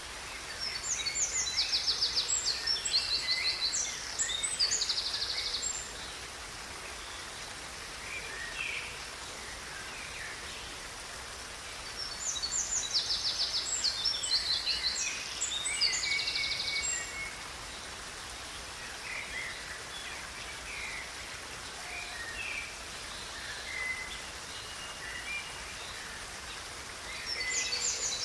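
Songbirds singing over the steady rush of a river: a bout of fast trilled song at the start, another about twelve seconds in, and a third beginning near the end, with scattered softer calls between.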